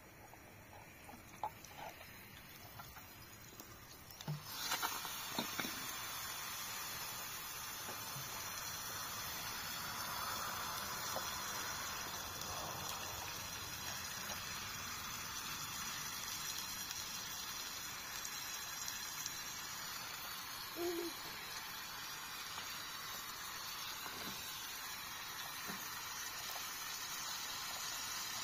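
Liver frying in hot oil in a pan: a steady sizzle that starts suddenly about four and a half seconds in, after a few soft knocks.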